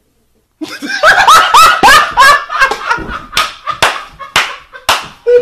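Hard, loud laughter in quick rising bursts, followed after about three seconds by a run of sharp slaps about half a second apart.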